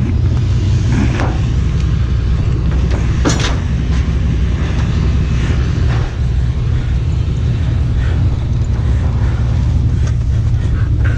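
Truck driving: a steady, loud low rumble of engine and road noise, with a brief sharp noise about three seconds in.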